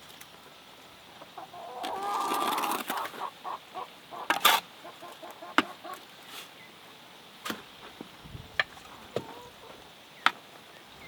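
A chicken clucking, a run of short clucks about two seconds in, with several sharp taps or clicks scattered through the rest.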